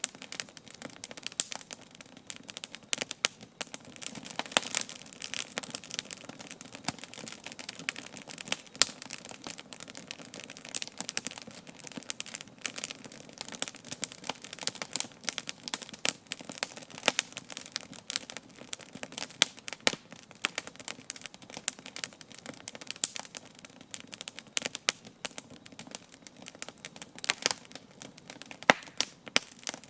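Wood campfire crackling, with dense, irregular sharp pops and snaps over a steady soft rush of burning.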